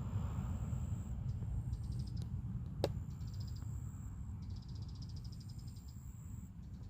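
Steady low wind rumble on the microphone, with short bursts of rapid high-pitched chirping pulses and one sharp click about three seconds in.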